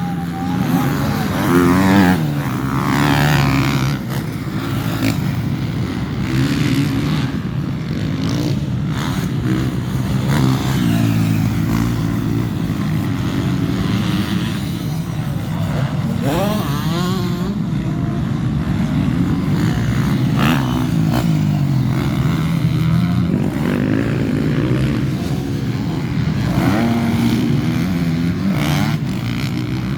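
Several motocross bikes running and revving, their engine notes rising and falling again and again as they accelerate and back off.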